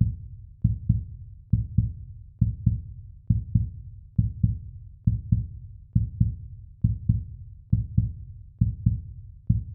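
Heartbeat sound effect: a low double thump, lub-dub, repeating evenly a little faster than once a second.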